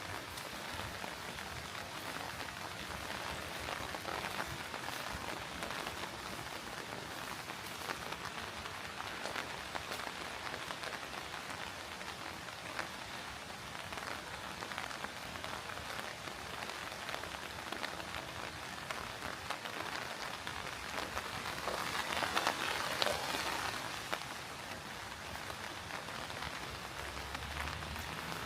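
Steady rain, a dense hiss of many small drop impacts, growing louder for a couple of seconds about three-quarters of the way through.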